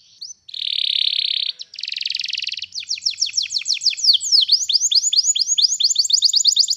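Domestic canary singing a long rolling song. After a brief pause come two buzzy rattling trills, then a fast run of repeated down-slurred notes that quickens about four seconds in.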